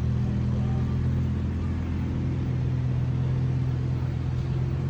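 Steady low engine drone of a vehicle running at an even speed, with a constant low hum.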